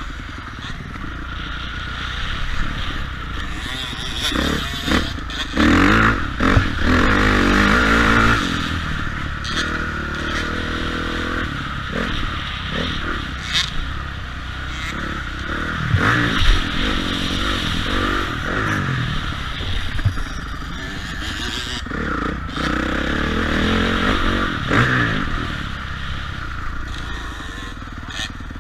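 Motocross bike engine revving up and down as it is ridden over a dirt track, with the hardest pull about six seconds in. Short sharp knocks and clatter come in here and there.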